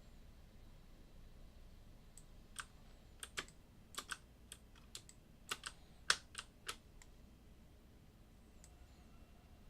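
Typing on a computer keyboard: about a dozen separate keystrokes in an uneven run from about two and a half seconds in to about seven seconds in, with quiet before and after.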